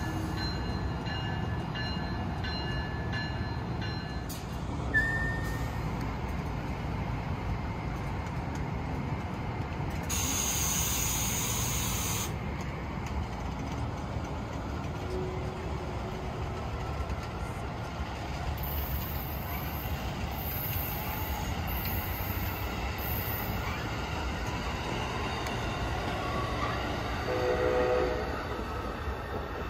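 Train running past with a steady low rumble. A faint high squeal fades out about four seconds in, a burst of hiss comes about ten seconds in, and a short low tonal blast sounds near the end.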